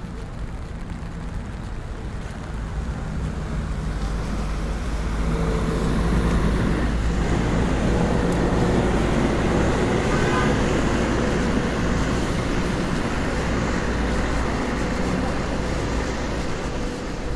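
Motor vehicle traffic in heavy rain: a vehicle's engine draws near, growing louder from a few seconds in and loudest around the middle, over a steady hiss of rain.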